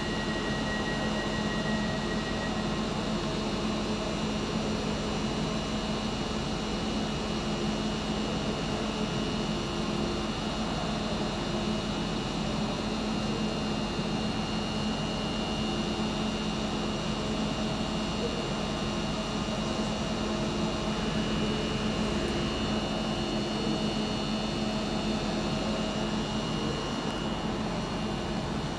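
Northern passenger train humming steadily while it stands, a low drone with faint high steady tones above it.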